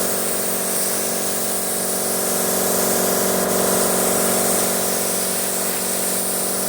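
Paint spray gun hissing steadily under compressed air, over a steady machine hum.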